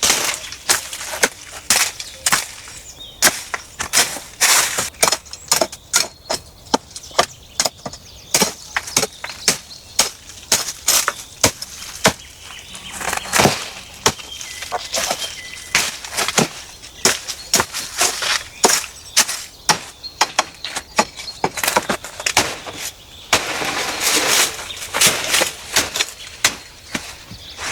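Dry wood crackling and snapping in a quick, irregular run of sharp cracks, several a second, with a rustling stretch near the end.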